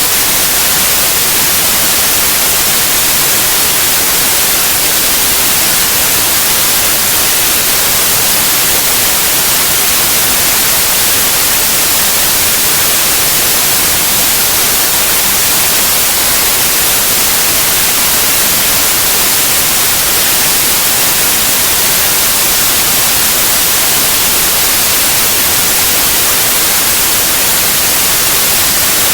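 Steady white noise: an even, unchanging hiss across the whole range, brightest in the treble, with no events or changes.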